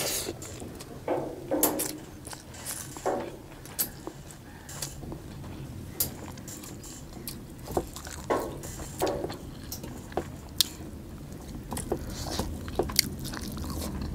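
Close-miked eating sounds of rice and pork eaten by hand: chewing and wet mouth smacks, with scattered sharp clicks.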